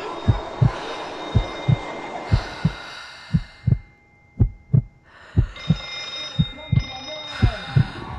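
Heartbeat thumping in lub-dub pairs, about one beat a second, over a layered hum with steady high-pitched tones. The background falls away for a second or two near the middle, leaving the heartbeat alone, then comes back.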